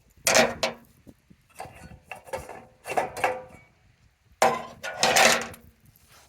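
Cast iron pie iron being handled and opened: a string of metal clanks and scrapes, about five in all, the longest near the end.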